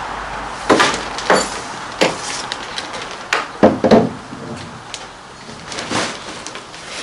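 Sections of a windsurfing mast being handled and fitted together: a string of sharp knocks and clunks with some scraping between them, the loudest knocks bunched a little past halfway.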